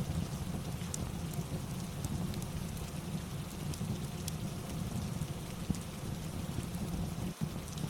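Steady rain falling, with a low rumble under it and scattered small pops and crackles of a wood fire.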